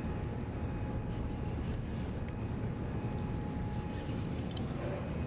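Boat motor running steadily: a low, even rumble with a faint steady whine above it.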